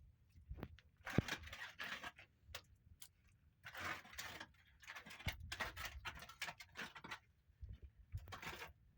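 Irregular knocks and clicks mixed with short bursts of scraping or rustling, as from objects being handled and moved about.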